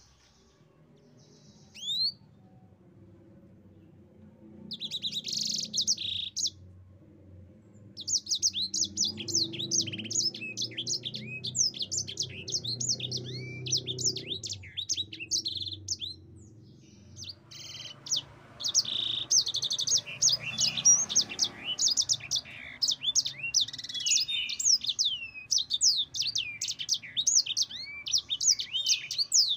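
A sanger songbird, the finch sold as 'mozambik', singing a long rapid rolling song of quick high chirps and slurred whistles. After a near-quiet start with a single rising note and a short burst, it sings long unbroken runs with a brief pause in the middle.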